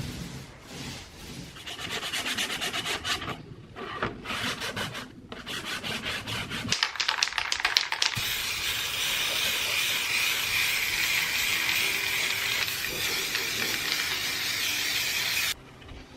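Sanding, most likely dried gypsum paste over screw holes in gypsum board: a run of quick back-and-forth strokes, then a steady, even rasp for several seconds that stops abruptly near the end.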